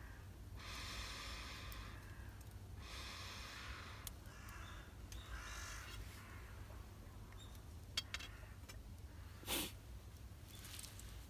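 A bird calling: several drawn-out harsh calls in the first half, then a couple of sharp clicks and a louder knock near the end.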